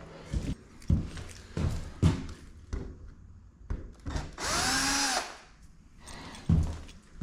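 A power drill runs once, briefly, about four and a half seconds in, its pitch rising then falling as it speeds up and slows. Scattered knocks and clunks come before and after it.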